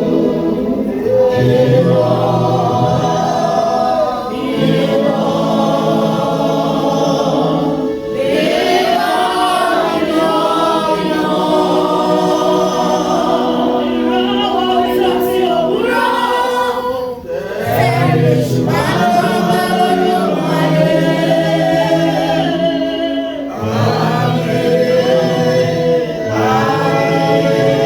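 A choir and congregation singing a gospel hymn together, in phrases of a few seconds with short breaks between them.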